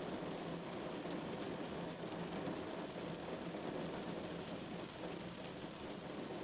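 Rain falling steadily on a car, a dense, even patter of drops on the body and glass.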